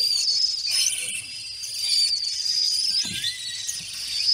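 A chorus of many small caged birds chirping and trilling together, high-pitched and unbroken, with a lower whistled note joining in over the last second or so.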